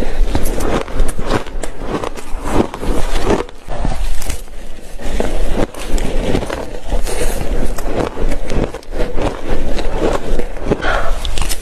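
A person biting and chewing spoonfuls of shaved ice: loud, dense, irregular crunching that goes on without a break.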